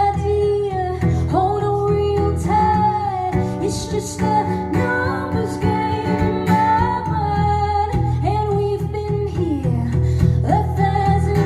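Live female vocal singing long held notes that slide up into pitch, over a steadily strummed guitar.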